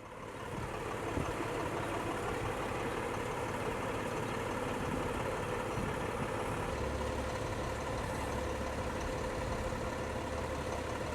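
A heavy truck engine idling steadily, with a steady droning tone over it.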